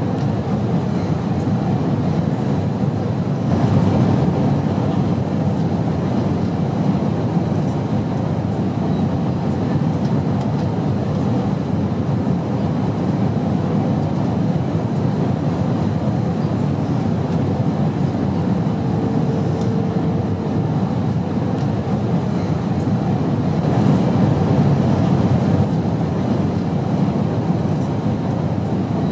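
Airplane in flight, a steady low rumbling drone with no breaks, swelling slightly about 4 seconds in and again near 24 seconds.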